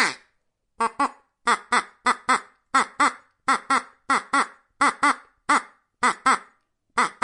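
An animal calling over and over in short nasal notes, mostly in quick pairs, about ten pairs in a steady rhythm.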